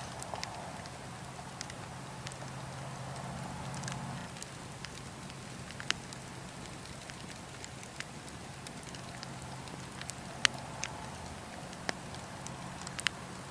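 Burning wood fire crackling: a steady soft hiss with scattered sharp pops and snaps, the loudest about ten seconds in and a quick cluster near the end.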